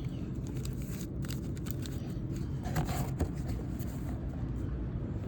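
Steady low background hum, with a few faint light ticks and rustles about a second in and again near three seconds.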